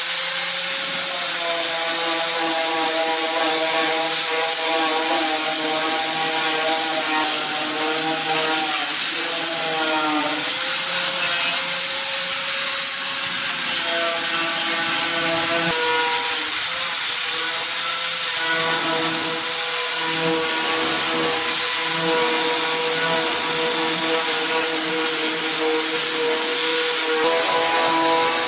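A power tool's motor running steadily with a high whine. Its pitch sags briefly about nine seconds in, as under load, and rises again near the end.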